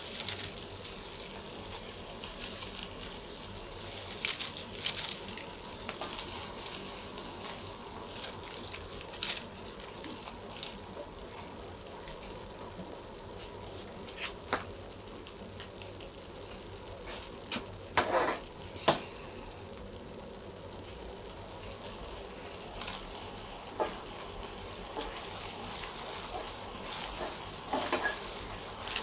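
Cabbage and chicken frying in a steel pan: a low steady sizzle with scattered taps and clicks, two sharper knocks in the middle, and a wooden spatula stirring near the end.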